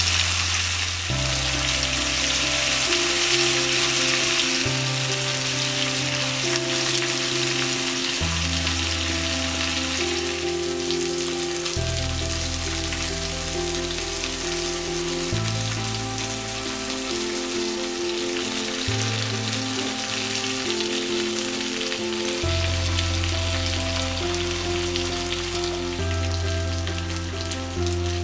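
Skewered marinated prawns sizzling as they shallow-fry in hot coconut oil with curry leaves, a steady crackling hiss that is strongest in the first few seconds. Background music with low sustained notes changing every second or two plays along.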